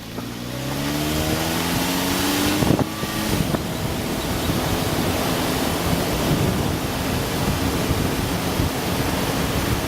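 A Jeep's engine revving up as it pulls away, its pitch rising over the first two or three seconds, then running steadily. Heavy wind noise on the microphone covers it, with a couple of knocks about three seconds in.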